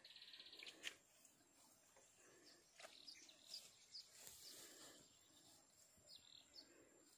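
Near silence outdoors, with faint high bird chirps: a short buzzy trill at the start, a string of brief calls about three to four seconds in, and two more near the end.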